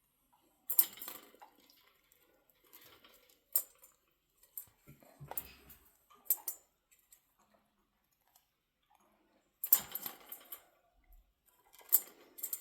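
Pet birds eating from their food dishes: scattered clicks and short clatters of beaks working the food and knocking against the dishes, in bursts a second or more apart.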